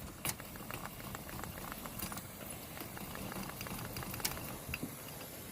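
Lit Coleman white-gas pressure burner hissing steadily with many small irregular crackles and pops as it warms up and flares.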